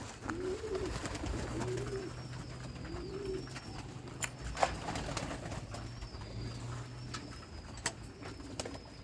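Domestic pigeons in a loft cooing, a run of low rising-and-falling coos about once a second that fades after a few seconds, with a few sharp clicks among them.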